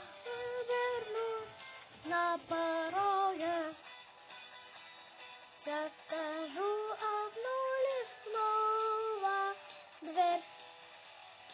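A song: a high singing voice over backing music, sung in melodic phrases with short breaks; the voice stops about ten and a half seconds in, leaving the backing music.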